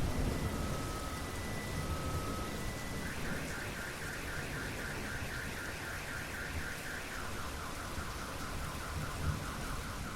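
Steady heavy rain, with the tail of a thunder rumble dying away at the start. Through it a car alarm sounds: slow alternating two-tone beeps, then from about three seconds in a rapid warbling chirp that shifts to a lower chirp about seven seconds in.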